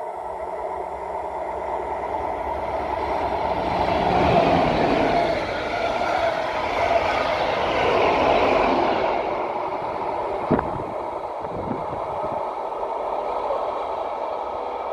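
A train passing: its running noise builds to its loudest between about four and nine seconds in, then eases off. A single sharp knock comes about ten and a half seconds in.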